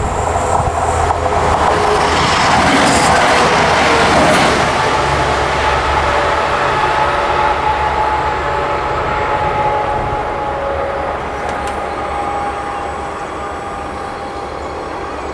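ATR220 Swing diesel railcar moving away past the level crossing, its engine and rolling noise loudest about three seconds in and then slowly fading.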